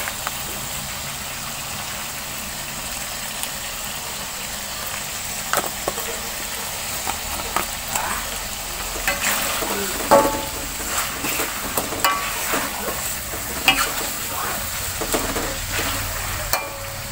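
Chicken in a thick spicy sauce sizzling and bubbling in a wok, with scattered clicks and scrapes that grow more frequent in the second half. Near the end a metal spatula stirs the chicken around the wok.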